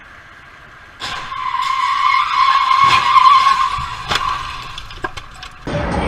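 Car tyres screeching in a skid: a loud, steady, high squeal lasting about four seconds, with a couple of sharp knocks during it. Near the end it cuts abruptly to a different loud road noise.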